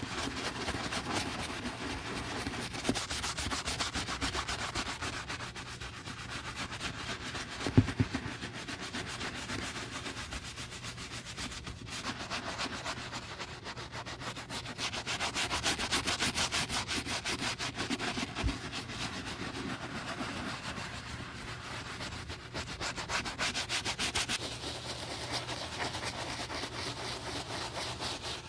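Continuous fast rubbing strokes, like sanding or scrubbing the surface of a cowboy boot, swelling and easing in intensity, over a faint steady low hum. A sharp knock about eight seconds in.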